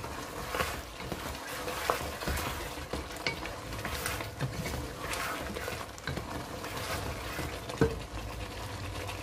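Potatoes with tomato and spices frying in oil in a pot, sizzling steadily as a spatula stirs them, with several light knocks and scrapes of the spatula against the pot, the sharpest near the end.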